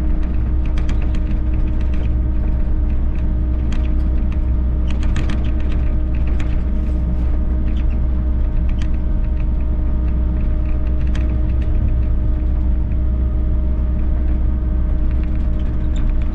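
Volvo EC60E excavator running steadily at working revs: a constant low engine rumble with a steady hum over it, broken by scattered short clicks and knocks.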